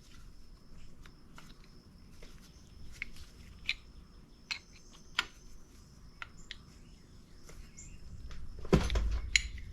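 Faint, scattered metal clicks and ticks of a wrench working on a brake line fitting, with a louder clatter of metal parts near the end. A faint steady high tone sits underneath.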